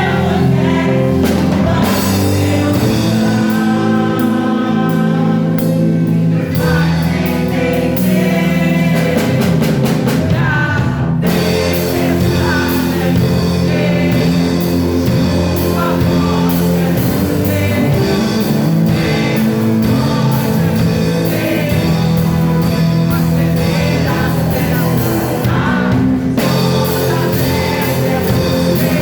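Live worship music: voices singing a praise song over a band with drums. There is a brief break about eleven seconds in, after which the drums play more fully.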